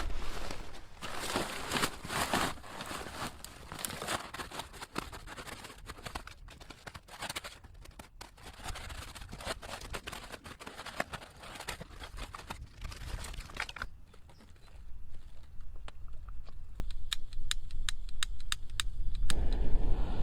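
Newspaper being crumpled and handled in irregular crackles. Near the end comes a quick run of clicks, then a loud low rushing as the diesel-soaked burn pile is lit and the flames catch.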